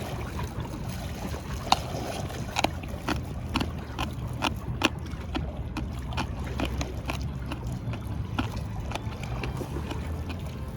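Irregular sharp clicks and taps, a few a second, over a steady low rumble.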